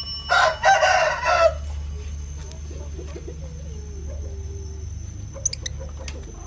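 A rooster crowing once, loud, for about a second just after the start, followed by faint, lower clucking calls over a steady low hum.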